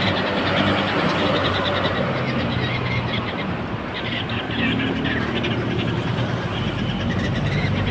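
Steady vehicle and traffic noise with a low engine hum.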